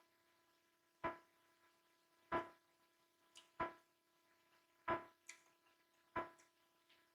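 Close-miked chewing and mouth sounds while eating: short wet smacks in a steady rhythm, about one every second and a bit, with a few fainter ones in between.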